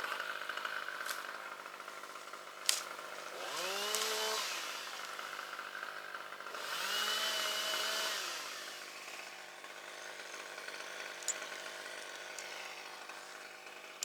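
Chainsaw running, revved up twice, each time rising in pitch and holding for about a second before dropping back, with a sharp click in between.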